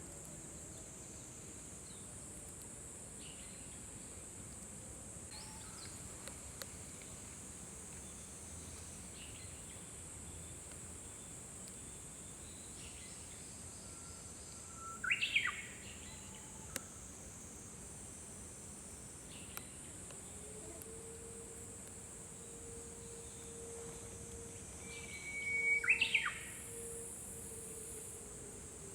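Japanese bush warbler singing twice, about fifteen and twenty-six seconds in. Each song is a held whistle followed by a quick rising-and-falling flourish, the 'hō-hokekyo' song. A steady high hiss of insects runs underneath.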